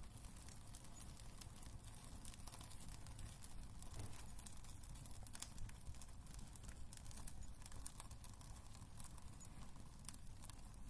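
Wood fire crackling in a fireplace: irregular sharp pops and snaps over a low, steady rumble. One louder pop comes a little past halfway.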